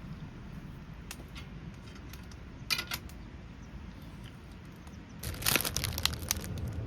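Scattered small clicks and crinkling from objects being handled, with a denser run of crackling clicks about five seconds in.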